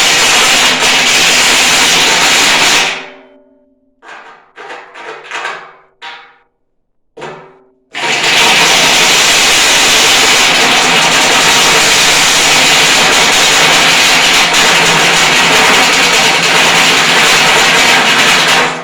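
Handheld electric power tool working, with a steady motor hum under a loud hiss. It runs for about three seconds, is triggered in a string of short bursts, then runs again for about ten seconds near the end.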